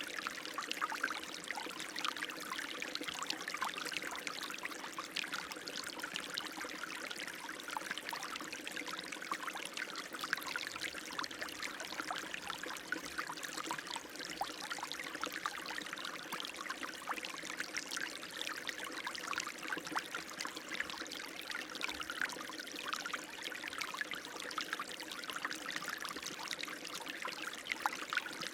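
Running water, splashing and trickling steadily without a break.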